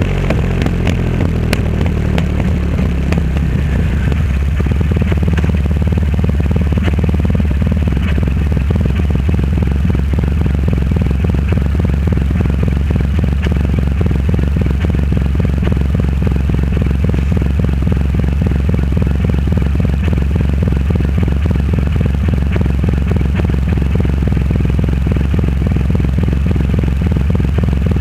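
Triumph Rocket 3 Roadster's three-cylinder engine heard through its custom exhaust, running at a steady, even pitch while the bike is ridden.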